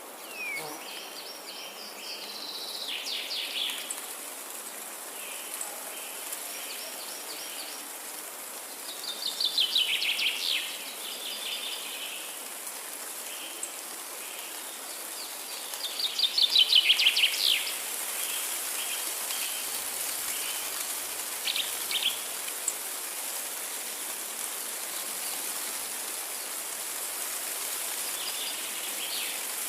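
Forest birdsong: a songbird sings a fast trilled phrase three times, about every seven seconds, the second and third louder, with softer chirps from other birds between. A steady hiss of forest ambience lies under it.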